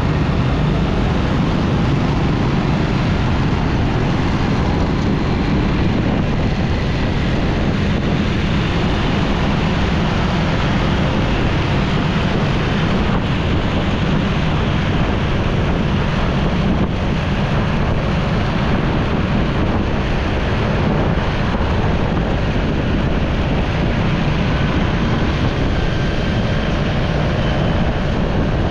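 Steady wind rushing over the microphone of a moving motorcycle, mixed with the low rumble of the engine and road traffic.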